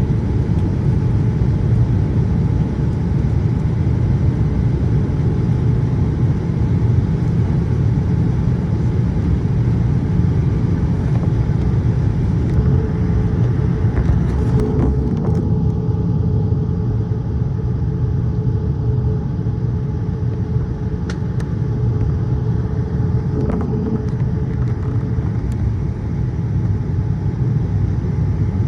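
Steady airliner cabin rumble inside a Boeing 787-8 in flight, engine and airflow noise at an even level, with a faint steady hum and a few faint clicks midway.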